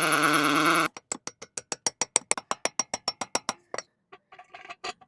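Power drill with a masonry bit running at a steady pitch, cutting off abruptly about a second in. A run of quick, even clicks follows, about seven a second, then a few scattered clicks near the end.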